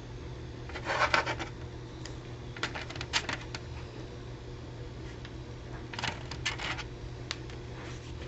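Small objects being handled and set down on a workbench: three short clusters of clicks, taps and rubs, about a second in, about three seconds in and near six to seven seconds, over a steady low hum.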